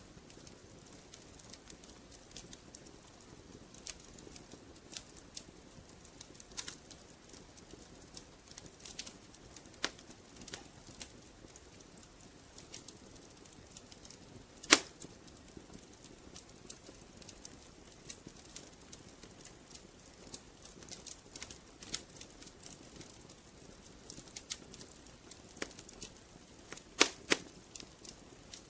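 Wood fire crackling in a fireplace: soft hiss with irregular sharp pops and snaps, one loud pop about halfway through and a pair of loud snaps near the end.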